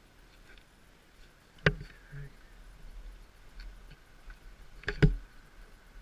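Two sharp knocks about three seconds apart, the second a quick double, with a few faint ticks between them over a low rumble.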